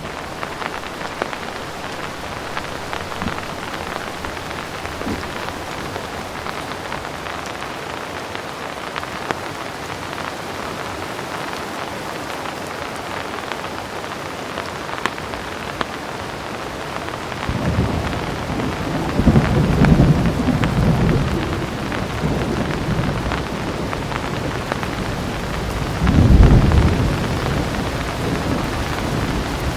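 Heavy rain falling steadily, with thunder rumbling in from just past the middle. The two loudest rolls of thunder come a few seconds apart near the end.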